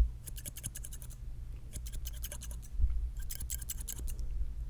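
Scissors snipping close to the microphone in three quick bursts of crisp clicks, with a low thump at the start and another about three seconds in.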